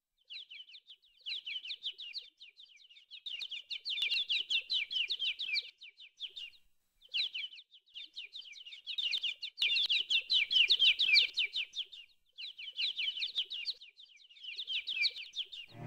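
Small birds chirping and twittering in quick, dense runs of high chirps, in phrases a few seconds long with brief pauses about seven and twelve seconds in.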